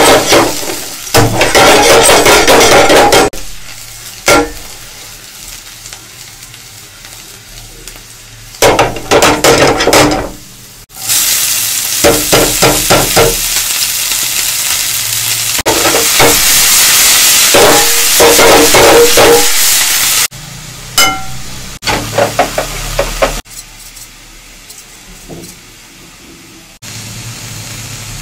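Chopped garlic and then shredded vegetables sizzling in hot oil in a stainless steel frying pan, stirred with a spatula. The sizzle comes in loud stretches separated by quieter ones, and is longest and loudest once the vegetables are in the pan.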